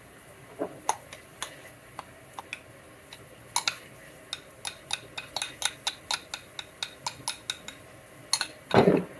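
Light clicks and taps of a utensil against kitchenware, scattered at first, then a quick run of about three or four taps a second, and one louder knock near the end.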